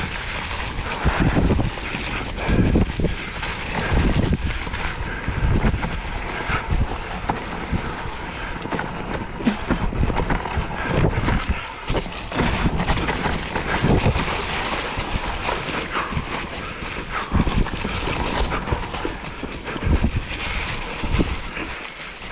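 Whyte E180S electric mountain bike ridden over a rough dirt trail: tyres rolling over stones and roots, with the bike rattling and knocking unevenly over the bumps.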